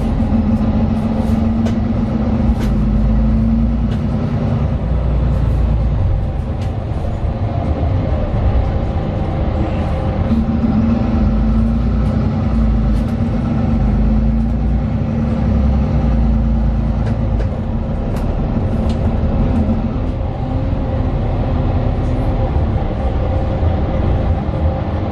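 Cabin sound of a 2018 Mercedes-Benz Citaro 2 city bus on the move: its six-cylinder OM 936LA diesel and ZF Ecolife automatic gearbox give a steady low rumble, with an engine tone that swells and fades in stretches as it pulls. Small clicks and rattles from the interior fittings run throughout.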